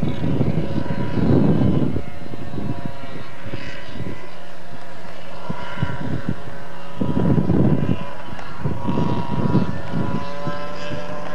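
Distant Alfa Romeo Alfasud's flat-four engine running hard as the car is thrashed across dirt, its note wavering up and down. Gusts of wind buffet the microphone several times.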